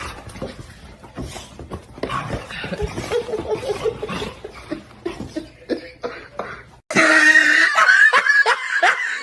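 Scattered clicks and faint voice sounds, then about seven seconds in a person laughing loudly in short, repeated, falling bursts.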